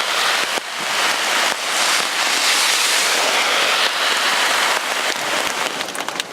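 Hard rain falling, a steady loud hiss, with a few sharp taps near the end.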